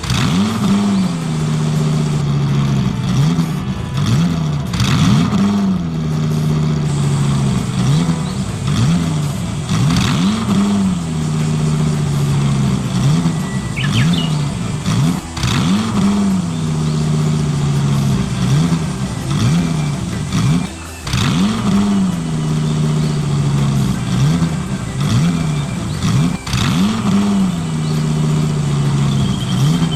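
Remote-control construction model's simulated diesel engine sound revving up and down over and over, every second or two, with scattered clicks and clatter.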